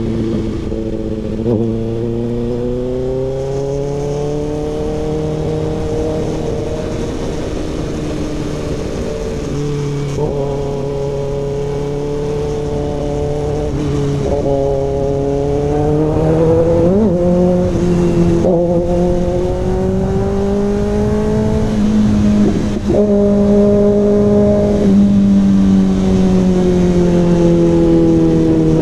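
Kawasaki ZX-6R's inline-four engine through an SC Project CRT slip-on exhaust, running under way. Its pitch drifts gently up and down, with several short breaks in the note, and it gets a little louder about halfway through.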